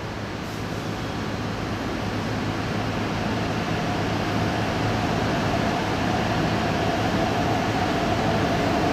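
An MTR R-Train electric train approaching, its rumble growing steadily louder, with a steady whine joining in about four seconds in.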